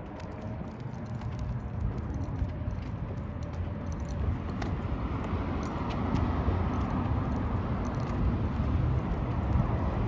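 Road traffic noise with a steady low rumble, growing louder about halfway through as a vehicle draws near.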